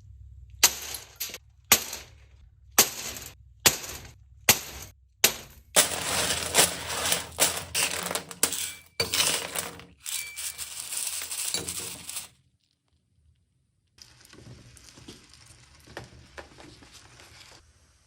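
Pieces of hard candy clinking and rattling: about seven sharp separate clinks, then a long dense rattling clatter, a short pause, and a softer rattle.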